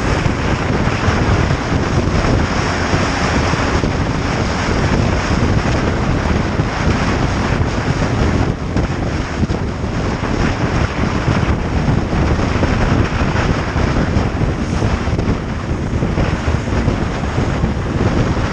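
Heavy wind rushing over the microphone of a moving motorcycle, a steady loud rush that hides the engine.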